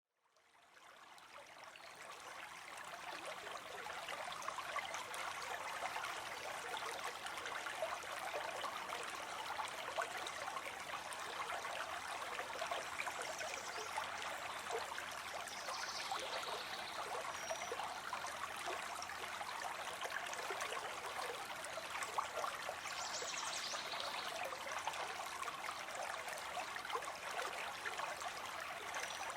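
Small stream trickling and babbling steadily, fading in over the first couple of seconds.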